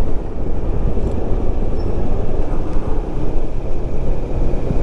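Loud, steady wind rumble on a helmet-mounted microphone while riding a motorbike, with road and engine noise underneath.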